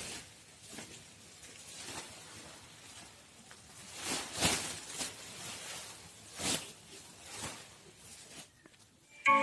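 Faint, scattered rustling and scraping noises, a few short louder swishes among them. Near the end a bright marimba-style tune starts suddenly.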